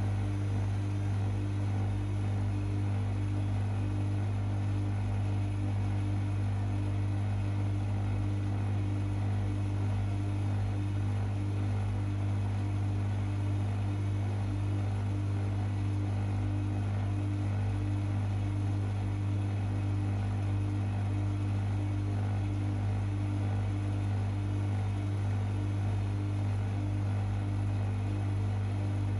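Privileg 5020 front-loading washing machine running steadily mid-cycle, a constant low motor hum with no pauses.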